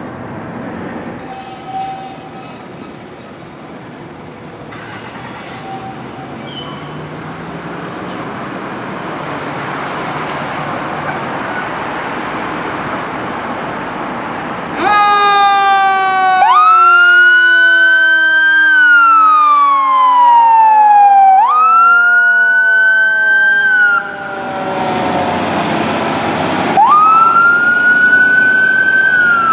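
Emergency-vehicle sirens from a responding fire engine and rescue truck: a growing rumble of approaching vehicle noise, then about halfway in loud siren wails start, each sweeping up and gliding slowly back down, repeated several times, over a second tone that winds slowly down.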